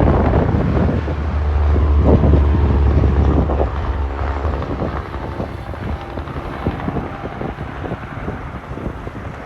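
A semi truck passing by, its diesel engine running loud with a deep rumble for the first four seconds or so, then fading as it goes away, with wind buffeting the microphone.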